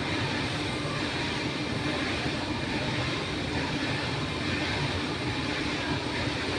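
Heavy machinery running steadily: a continuous rumble and hum with no distinct knocks or changes.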